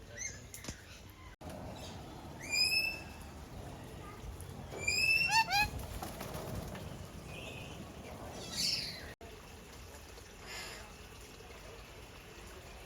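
A bird calling: a short rising whistled note about two and a half seconds in, then a quick run of similar rising notes around five seconds in, over a steady background murmur.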